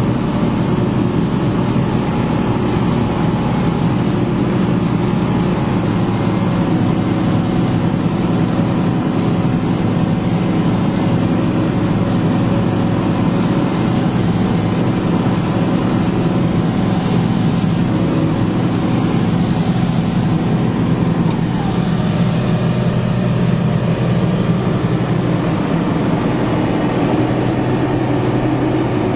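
Heavy diesel harvest machinery running steadily with a continuous engine drone.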